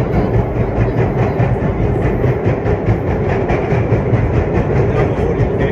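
Vintage R1-9 subway train running on the tracks, heard from inside a car: a steady, loud rumble of wheels on rail.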